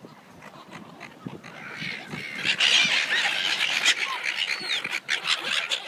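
A flock of seagulls calling over one another, the cries swelling into a loud, dense clamour about two seconds in as the birds crowd in for food.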